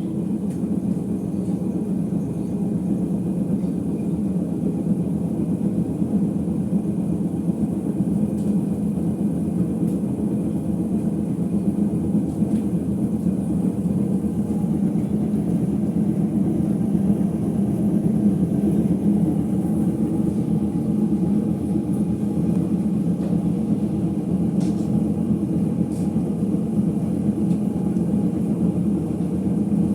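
Ipso HF 65 commercial washer in its final spin, the drum running with a steady, loud rumble from worn drum bearings. The rumble grows slightly louder over the first half, then holds steady.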